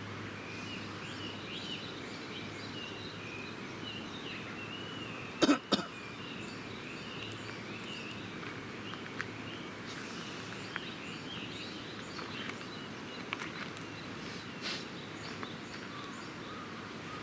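Outdoor dawn ambience with small birds twittering steadily. Two loud sharp sounds come in quick succession about five seconds in, the loudest thing here.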